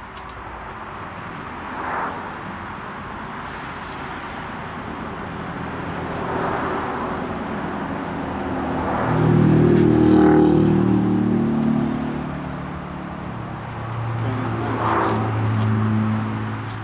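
Motor vehicles passing by, with engine hum swelling loudest about ten seconds in and again near the end, over steady outdoor noise.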